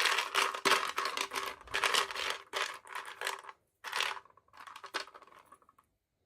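Packaging being crinkled and torn open by hand during an unboxing: a dense run of crackling for about three and a half seconds, then a few shorter crinkles that die away.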